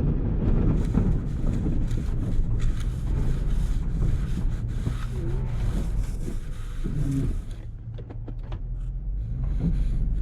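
Engine of a snow-plowing vehicle running steadily with a low hum. It eases off about eight seconds in, then picks up again.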